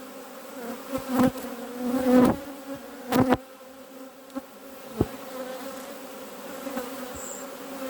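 Honeybees buzzing in a steady hum from an open hive during a frame-by-frame inspection, with a few short knocks near the start and middle, about five seconds in.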